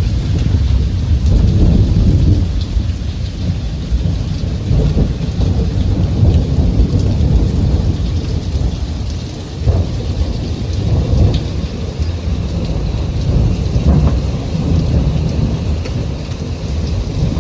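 Thunderstorm: heavy rain falling with a steady hiss and scattered drop ticks, under long, deep rolling thunder that swells and fades without a break.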